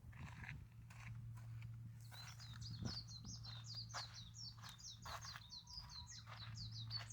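A small bird singing a fast run of short, high, down-slurred chirps, about five or six a second, starting about two seconds in, over a steady low hum and a few faint knocks.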